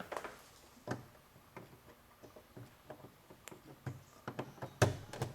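Irregular light clicks and knocks of an electric sander and its cord being handled, not running, with one louder knock near the end.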